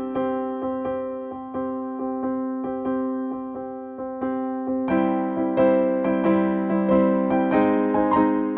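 Background music: a gentle electric piano melody with repeated sustained notes, getting fuller and louder about five seconds in.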